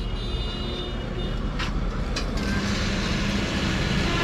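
Steady motor-vehicle engine and traffic noise, with two sharp clicks about half a second apart just under two seconds in.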